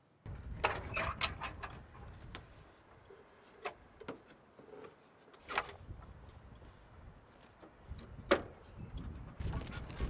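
Gusts of strong wind rumbling on the microphone, rising and falling, with scattered sharp knocks and rattles.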